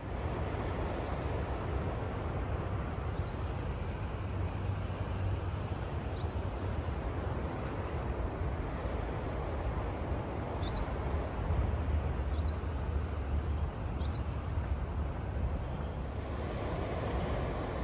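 Short high bird chirps every few seconds over a steady outdoor rush of wind and sea with a strong low rumble.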